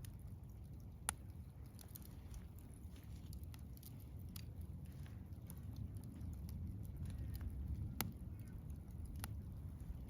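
Burning wood crackling, over a steady low rumble, with many small crackles and scattered sharp pops. The sharpest pop comes about a second in, and two more come near the end.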